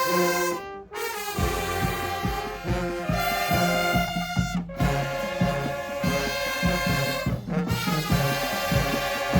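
High school marching band playing: the brass section sounds held chords over a steady drum beat, with short breaks in the sound about a second in and again twice later.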